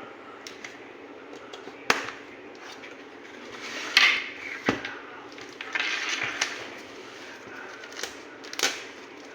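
A package being handled and opened by hand: a series of sharp clicks and snaps, with bursts of rustling about four seconds in and again around six seconds.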